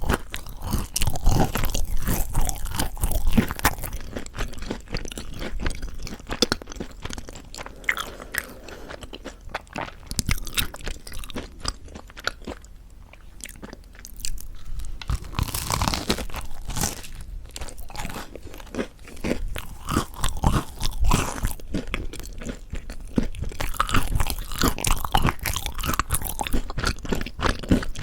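Close-miked bites and chewing of crispy mocha chapssal bread: dense crackling crunches of the crisp crust, with chewing in between. There is a quieter, softer chewing spell about halfway through.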